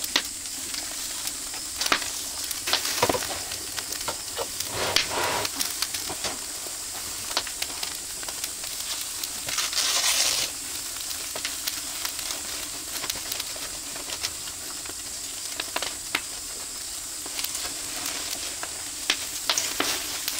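Meat sizzling on a grill over an oak-wood fire: a steady hiss broken by frequent sharp clicks and crackles, with a louder burst of hissing about halfway through.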